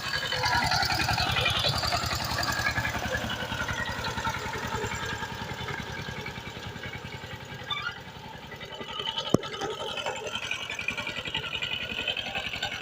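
Power tiller's single-cylinder diesel engine running with a rapid, steady beat, dipping a little in level for a moment, with one sharp click about nine seconds in.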